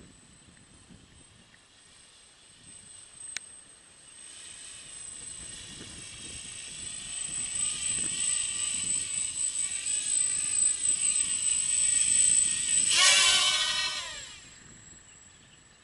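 A 200 mm quadcopter's brushless motors and propellers whirring, building up and holding at a louder level with a wavering whine. About 13 seconds in there is a sharp throttle punch with the pitch surging, then the sound falls away quickly. A single click comes shortly before the motors rise.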